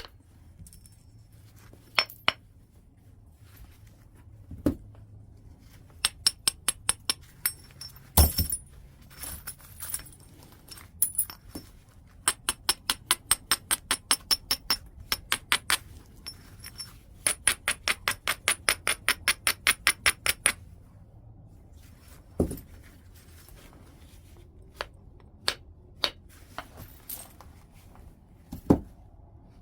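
Flintknapping on white chert: sharp, glassy clinks of a knapping tool on the stone. There are runs of quick light ticks, about four or five a second, and a few heavier strikes, about a third of the way in, two-thirds of the way in and near the end.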